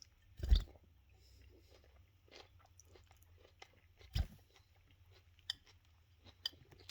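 Chewing and crunching of food at close range: scattered small crunches and clicks, with two louder knocks about half a second and about four seconds in.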